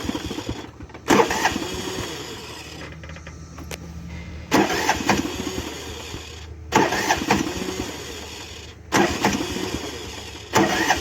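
Lawn mower engine being cranked by its starter in about five short tries, a second or two each, without catching. It turns over sluggishly and doesn't fully turn over: the engine has died after about ten minutes of running, starved of fuel by grass plugging the fuel filter.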